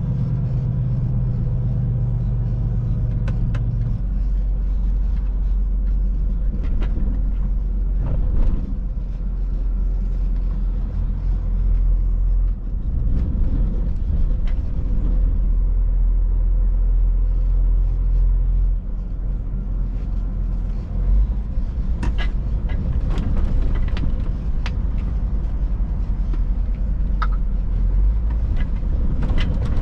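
Scania truck heard from inside the cab while driving: a steady low rumble of engine and road noise. A hum drops away about four seconds in, and several sharp clicks or knocks come in the last third.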